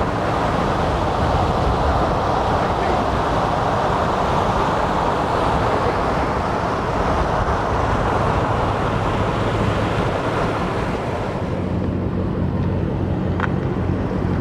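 Car engine running with steady road and tyre noise, as from a car on the move; it eases a little about eleven seconds in.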